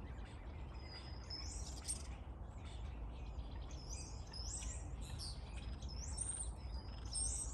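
Small songbird chirping: short, high chirps in quick clusters, one group about a second in and a longer run from about four seconds on, over a faint low rumble.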